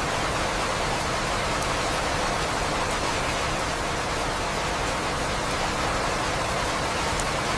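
Steady rain falling, an even hiss with no let-up, with a few faint ticks of individual drops.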